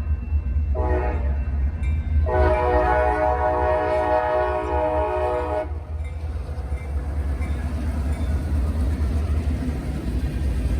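CSX freight locomotive horn sounding a short blast about a second in, then a long blast of about three and a half seconds, the close of the long-long-short-long grade crossing signal. After it the train rumbles past, with wind rumbling on the microphone.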